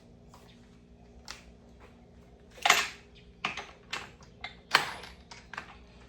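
Irregular metallic clicks and clanks of hand tools and sockets being handled, with a louder clank just under three seconds in and another near five seconds in.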